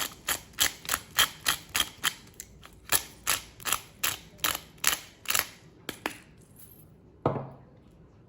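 Pepper mill being twisted, grinding pepper with a regular clicking of about four clicks a second that stops about six seconds in. A single knock follows near the end.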